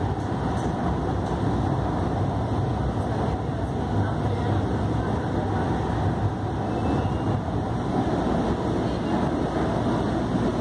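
Commuter train running at speed, heard from inside the carriage: a steady rolling rumble of wheels on rails and cabin noise, with no distinct clicks or changes.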